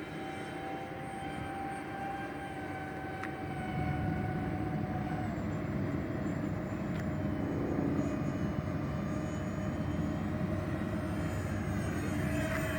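Electric ducted-fan jets of a radio-controlled model airliner whining steadily in flight, their pitch dipping slightly midway and starting to rise near the end as the throttle comes up.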